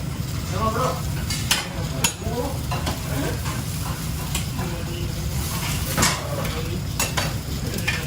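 Food sizzling and frying in a pan while a metal utensil stirs it, with a few sharp clinks of the utensil against the pan.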